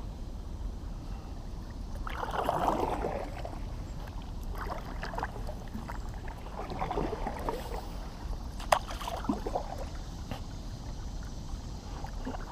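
Kayak paddle strokes dipping and splashing in calm marsh water, one every couple of seconds, over a low steady rumble. A single sharp click comes about two-thirds of the way through.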